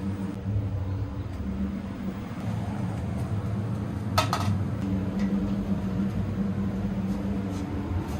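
Motorcycle workshop noise: a steady low hum with a single brief metallic clink about four seconds in.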